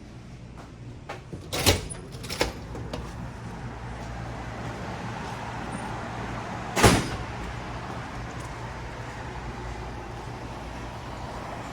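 Three thumps like doors shutting, two close together about two seconds in and a louder one near seven seconds, over a steady low rumble like a vehicle.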